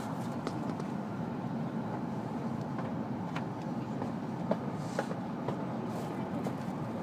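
W7 series Shinkansen running on elevated track, its steady running rumble heard from inside the passenger cabin, with a few light clicks about halfway through.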